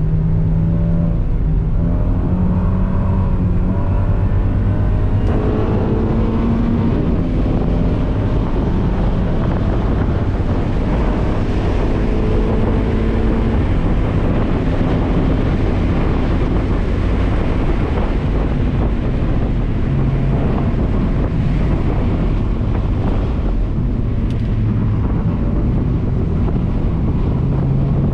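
Mazda Miata's four-cylinder engine under hard acceleration on a race track, heard from inside the cabin. Its note climbs in pitch and steps between gears in the first several seconds, then gives way to heavy wind and road noise at around 80 mph in the middle before the engine note drops again as the car slows near the end.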